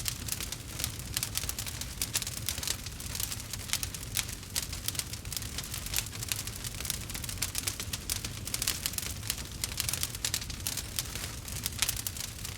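Campfire crackling: dense, irregular pops and snaps over a steady low rumble.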